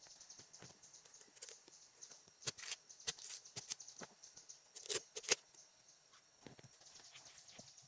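A run of irregular sharp clicks and taps, loudest about two and a half seconds and five seconds in, over a steady high hiss.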